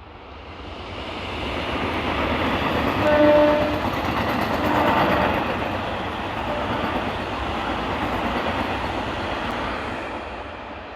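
A Sealdah suburban electric local train running past at speed. Its noise builds, holds, then fades as it goes by. The horn sounds about three seconds in, followed by a shorter second blast about two seconds later.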